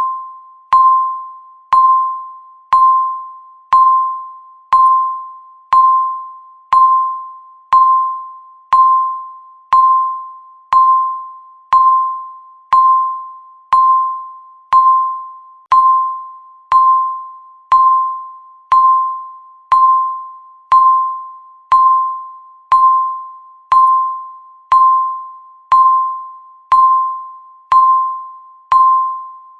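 Countdown timer beeping once a second: a single pure electronic tone near 1 kHz, each beep starting sharply and fading away before the next, at a perfectly even pace.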